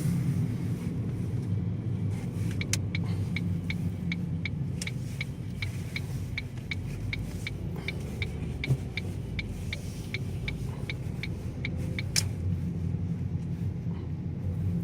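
Car cabin with steady engine and road rumble. From a few seconds in, the turn-signal indicator ticks at an even pace, about three ticks a second, and stops with a sharper click near the end.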